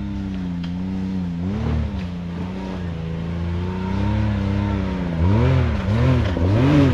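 Side-by-side UTV engine working up a steep climb: a steady note, one short rev a little way in, then three quick revs in a row near the end as the driver blips the throttle without enough momentum to make it up.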